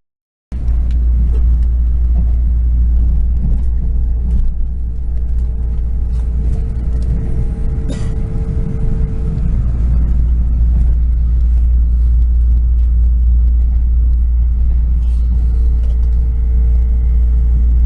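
Steady low rumble of a moving passenger train heard from inside the carriage, with a faint hum that comes and goes.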